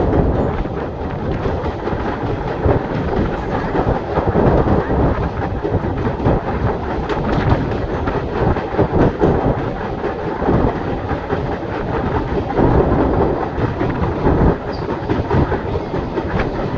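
Train running on the rails: a continuous rumble with the wheels clattering over the track.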